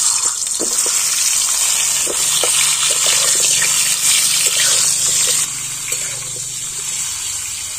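Pointed gourds rubbed with salt and turmeric sizzling loudly as they fry in hot mustard oil in an aluminium kadai, with a few light knocks. The sizzle eases a little about five and a half seconds in.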